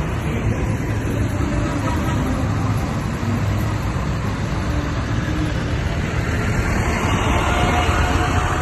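Tractor engine running, a steady low rumble that grows a little louder near the end.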